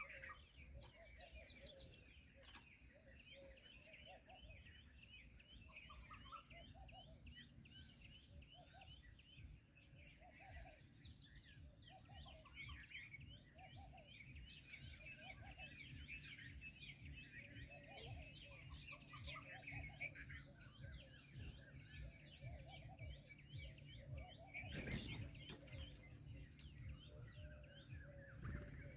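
Many small birds chirping and twittering continuously, with lower, rounder calls repeating about once a second underneath. About 25 seconds in there is a brief rustling rush.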